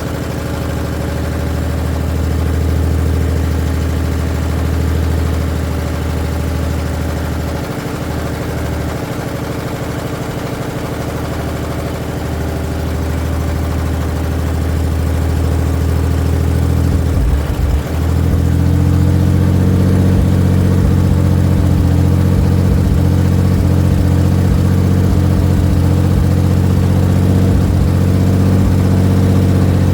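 A 4.3L V6 running with no oil, no coolant and no exhaust system, so it is loud and raw. About 17 seconds in it stumbles briefly, then settles into a steadier, slightly louder run.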